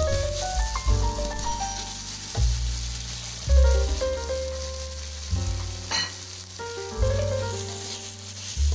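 Tomato slices, garlic, shallots and chilies sizzling in oil in a wok while a metal spatula stirs them, with a short clink about six seconds in. A background music track with a bass line plays over it.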